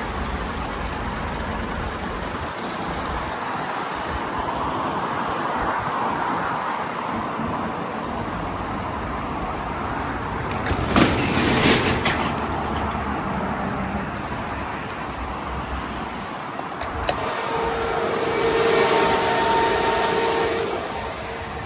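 A motor vehicle running steadily, with a brief louder rush about halfway through and a steady hum joining in the last few seconds.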